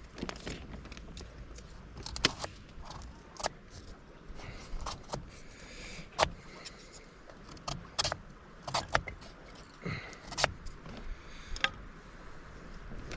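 Wood being worked into kindling by hand: irregular sharp cracks and scrapes, roughly one every half second to second, with faint scraping between them.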